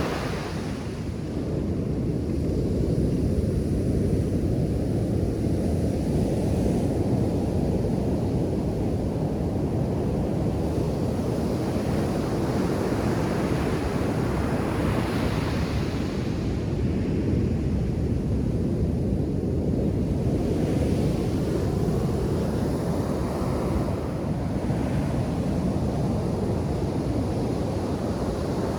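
Ocean surf washing onto a beach: a continuous rush of waves, with louder breakers hissing in at the start, about halfway through and again a few seconds later.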